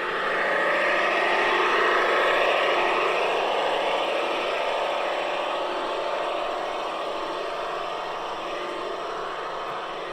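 Model diesel locomotive's sound decoder playing a diesel engine running sound through the loco's loudspeaker, on an LGB V 200 fitted with an ESU XL 5 decoder. The sound swells about a second in and then slowly eases off.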